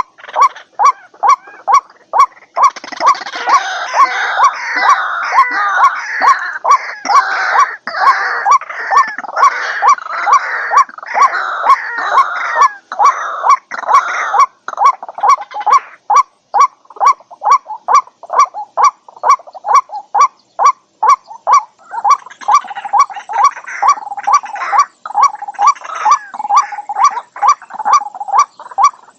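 White-breasted waterhen calling: a steady run of short repeated notes, about three a second, with harsh jumbled croaking and chattering over it for most of the first half and again near the end.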